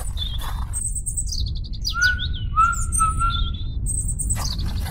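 Small birds chirping and twittering in many short, quick falling chirps, with a few longer whistled notes about two to three and a half seconds in, over a steady low rumble.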